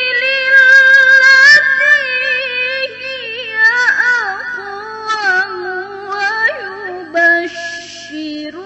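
A young female qari reciting the Quran in the melodic tilawah style. Her single voice holds long notes, with wavering, ornamented turns of pitch and brief breaks between phrases.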